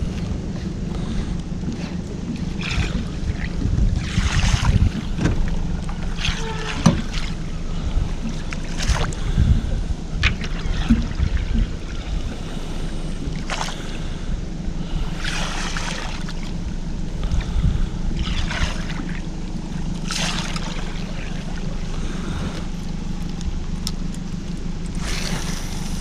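A steady low motor hum with wind and water noise around a fishing boat on a river. Short hissing splashes or swishes break in every few seconds.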